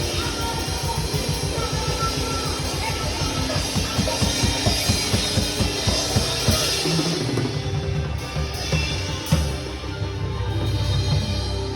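Drum kit playing along with a worship song medley: a fast, even run of bass drum strokes for the first several seconds, then the drumming eases off under held chords, with one sharp hit a little past the middle.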